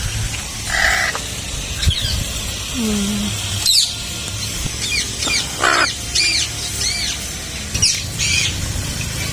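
Mixed farm birds calling: a short squawk about a second in, then a flurry of high, arching chirps from several birds in the second half, over a steady low hum.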